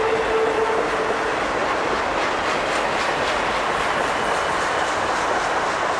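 A train rolling past, its wheels clicking over the rail joints in a steady rumble. A steady pitched tone carries over and stops a little over a second in.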